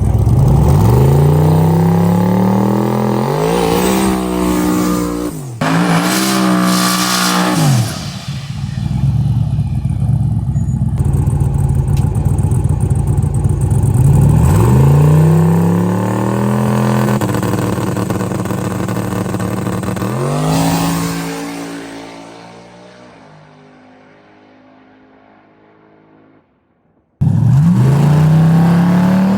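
Twin-turbo LS V8 in a drag-race Malibu accelerating hard at full throttle, its pitch climbing and dropping back at each gear change. It fades away near the end, then another run starts climbing again after an abrupt cut.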